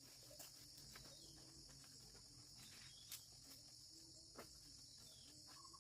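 Faint, steady high-pitched chirring of crickets, with a couple of soft ticks about three and four and a half seconds in.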